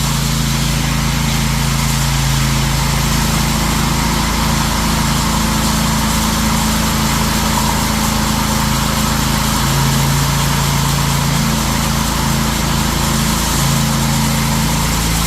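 Small gasoline engine of a ride-on power trowel running at a steady speed, with no change in engine speed.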